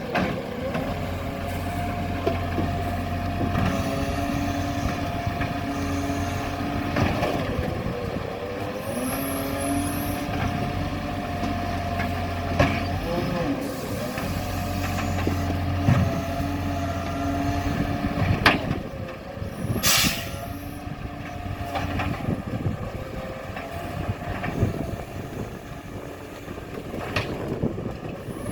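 Garbage truck engine running steadily, with scattered knocks and a short sharp hiss of air about twenty seconds in.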